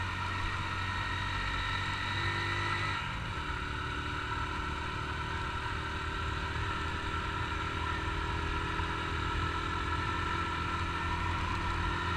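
Honda CG Titan 150's single-cylinder four-stroke engine running steadily at low riding speed; its note changes about three seconds in, then holds steady again.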